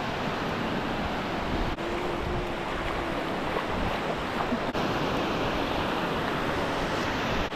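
Waves washing steadily onto a beach, a continuous rushing surf noise.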